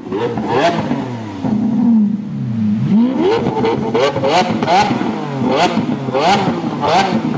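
A car engine revving in repeated quick blips, its pitch rising and falling with each one, with sharp cracks between the revs.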